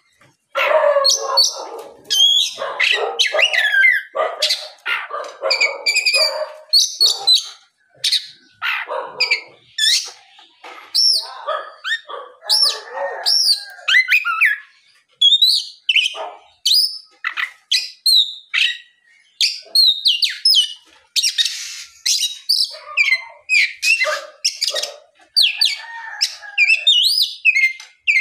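Oriental magpie-robin (kacer) in full song: a fast, unbroken run of loud, varied whistled notes and slurred pitch glides. Lower, rougher notes are mixed in, mostly in the first half.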